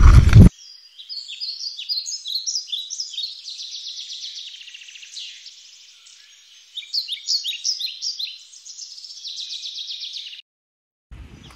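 Small birds chirping in quick, high, repeated notes. A loud rush of noise cuts off abruptly about half a second in, and the birdsong stops shortly before the end.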